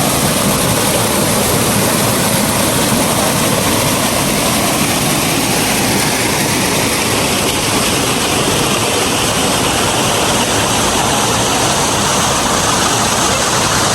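Waterfall: a loud, steady rushing of falling water.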